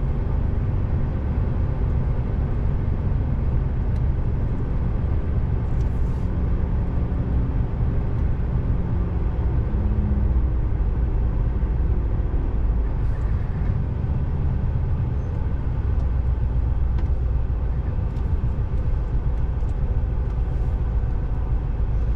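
Scania R590's 16-litre V8 diesel running steadily as a low, even rumble, heard from inside the truck's cab.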